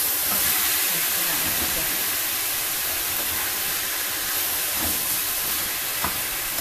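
Chicken pieces sizzling in a hot stainless steel pan with fish sauce just added, a steady steamy hiss, while they are stirred with a spatula. A light tap near the end.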